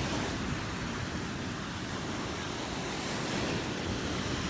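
Gulf of Mexico surf washing steadily onto the beach, with some wind buffeting the microphone.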